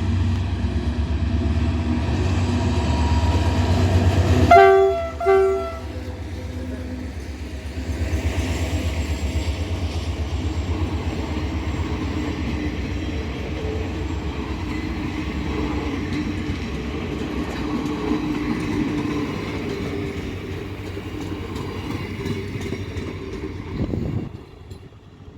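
Diesel locomotive departing: its engine running with a heavy low drone, two short horn blasts about four and a half seconds in, then the train rumbling and clattering along the rails until the sound drops away shortly before the end.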